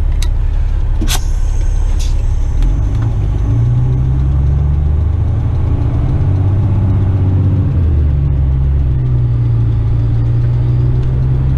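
Western Star tipper truck's diesel engine heard from the cab, with a few sharp clicks in the first two seconds. About three seconds in, the engine note strengthens into a steady low drone as the truck moves off from the lights under load, its pitch stepping a few times.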